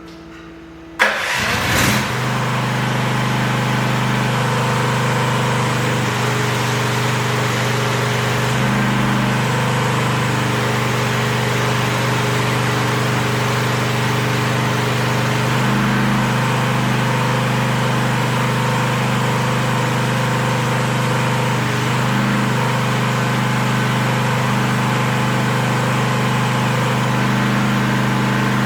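AGT Industrial H13R mini excavator's engine starting about a second in, then running steadily at an even speed.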